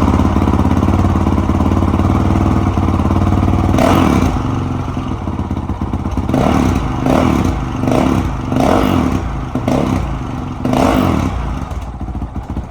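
Honda CRF450L single-cylinder four-stroke engine running through a Yoshimura full exhaust with its spark-arrestor insert in. It idles steadily at first, then from about four seconds in is revved in a string of quick throttle blips, roughly one a second.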